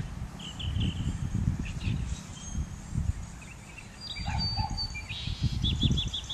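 Songbirds chirping: scattered short calls, then a quick run of about five chirps near the end, over a low, uneven rumble on the microphone.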